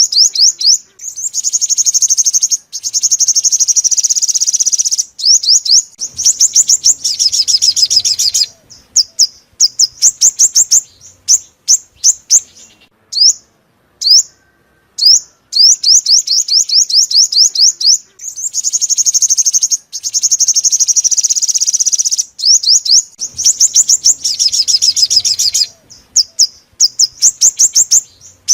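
Sunbird song from the purple-throated, yellow-bellied bird that Vietnamese keepers call the five-coloured sunbird (chim hút mật 5 màu): fast, high trills of quick downward-sweeping notes in phrases with short pauses between them. The same run of phrases plays twice, as a looped lure call used to draw birds to a speaker trap.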